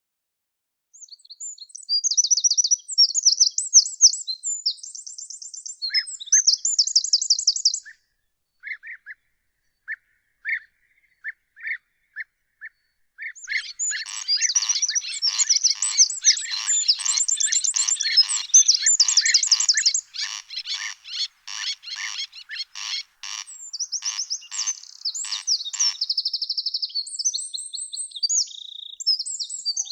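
Songbird singing in phrases: high, fast trills and chirps, a few short separate notes, then a long run of rapidly repeated notes about halfway through, and more high trills near the end.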